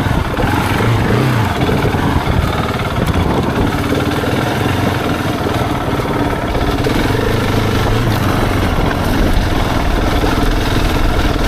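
Husqvarna 701's single-cylinder engine running steadily under way, its pitch rising and falling a little with the throttle, over a continuous rushing noise.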